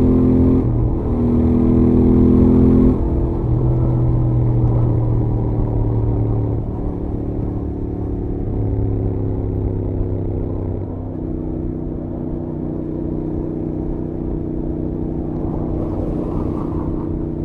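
Royal Enfield Interceptor 650's stock-exhaust 648 cc parallel-twin engine running at highway speed under the rider. The engine note is steady with a few brief shifts in pitch. It is loudest for the first three seconds, then eases slightly lower.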